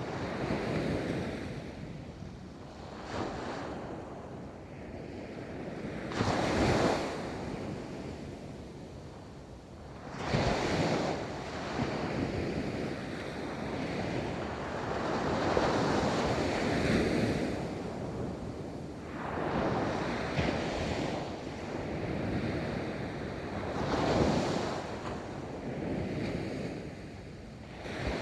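Ocean waves breaking and washing up a beach, one surge after another every few seconds, with the strongest breaks about a quarter of the way in, just past a third of the way in and near the end. Wind buffets the microphone throughout.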